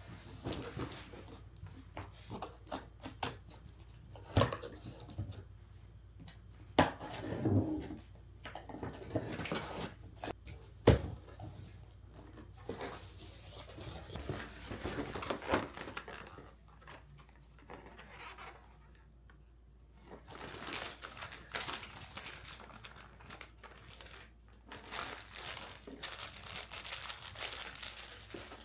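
Household handling sounds: a run of small clicks and knocks with rustling and crinkling in between, a few sharper knocks standing out about 4, 7 and 11 seconds in, and a quieter pause past the middle.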